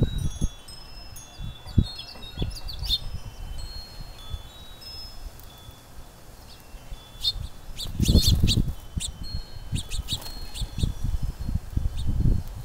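Metal wind chimes ringing in gusty wind, with gusts buffeting the microphone, strongest about eight seconds in. A few short bird chirps come through, mostly in the second half.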